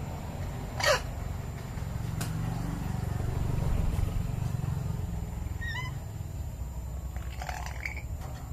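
Pet lory giving one loud squawk that slides down in pitch about a second in, then a few soft short chirps near the middle, over a steady low background rumble.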